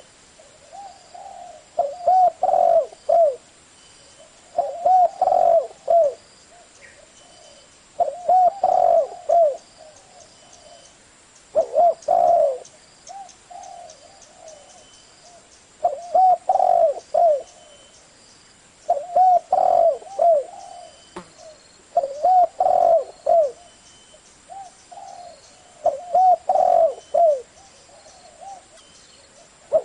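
Spotted dove cooing: a short, rolling, curved coo phrase repeated about every three to four seconds, nine times in all.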